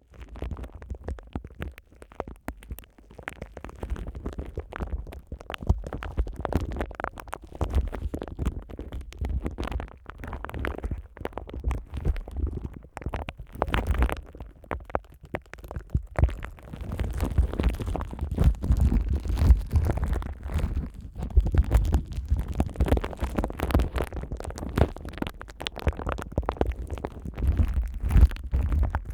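Plastic cling film crinkling and rubbing directly on a binaural dummy-head microphone: dense, continuous crackling over a deep handling rumble, growing somewhat louder in the second half.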